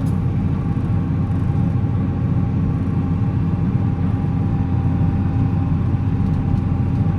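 Volvo L70C wheel loader's diesel engine running at a steady pace, a constant low drone with a steady hum of several tones.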